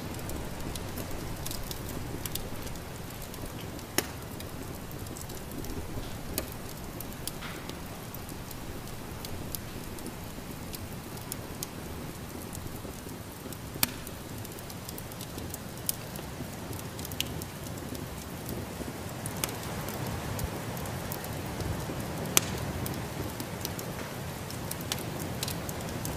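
Wood fire crackling in a fireplace: irregular sharp pops and snaps, a few of them loud, over a steady low rushing noise.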